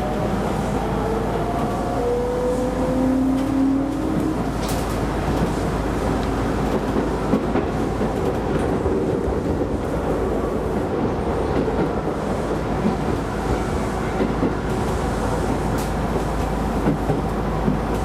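Keisei Line electric commuter train running on the line, heard from inside the car: a steady rumble of wheels on rail. A faint motor whine rises gently in pitch over the first few seconds, and a few sharp clicks come as the wheels cross rail joints.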